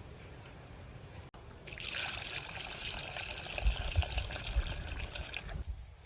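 Water running for about four seconds, starting nearly two seconds in and stopping shortly before the end, with a few low thumps while it runs.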